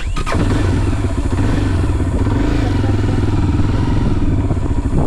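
Tekken motorcycle's engine running steadily as the bike rides along, coming in suddenly at the start with a rushing noise over it.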